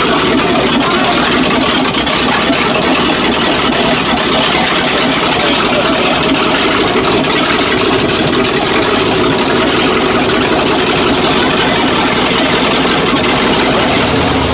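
Truck engine running loud and steady, with no rise or fall in pitch.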